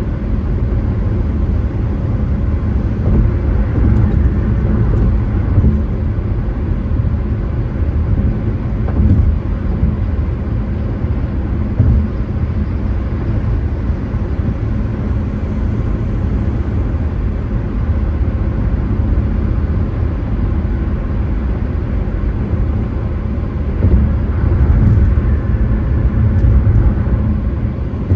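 Car driving along the road: a steady low rumble of tyres and engine, with a few brief rises in loudness.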